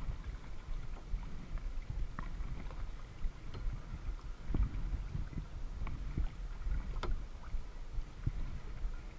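Kayak paddling on a lake: water splashing and dripping around the paddle and hull, with a few sharp clicks and knocks. A continuous low rumble of wind buffets the GoPro microphone.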